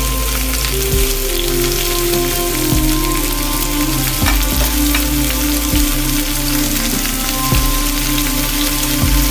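Beef keema (minced beef) sizzling as it fries in a pan, a steady crackling hiss. Background music plays over it, with sustained notes and a soft beat about every second and a half.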